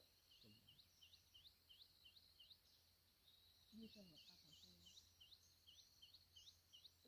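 Faint, rapid series of short chirps from a small bird, about three a second, with a brief pause partway through.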